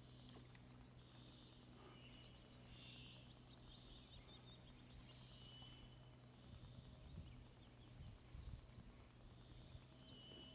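Near silence: faint distant birdsong, repeated short calls and quick runs of falling notes, over a low steady hum, with a few soft low bumps in the second half.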